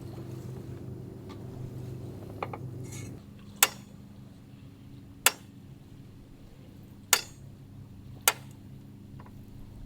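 Four sharp clinks of cookware and utensils, spaced a second or two apart, each with a short ring. Under them is a low steady hum that drops away about three seconds in.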